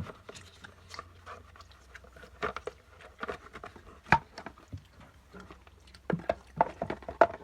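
Plastic clicks and knocks from a Dirt Devil Vibe stick vacuum's dust cup and filter being handled and fitted back together. The clicks come irregularly, with a sharper click about four seconds in and a quicker run of them near the end.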